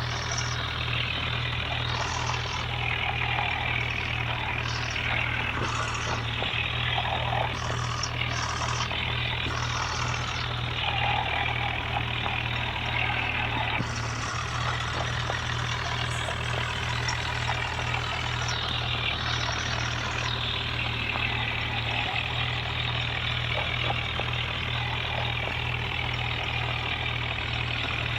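Diesel tractor engine running steadily, with an even low throb and a dense mechanical clatter over it.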